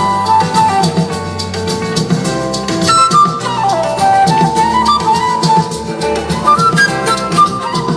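Live band playing an instrumental passage: drums keep a steady beat under a lead melody line that slides smoothly between notes.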